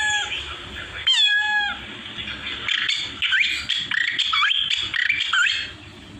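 A man imitating bird calls with his voice: two drawn-out, falling squawking calls, then a quick run of rising chirps and whistles in the style of a mynah or starling.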